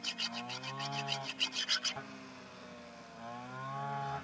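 Brush cutter engine running while cutting rice stalks, with a rapid rasping of several strokes a second for the first two seconds. The rasping then stops and the engine runs on alone, its pitch rising and falling.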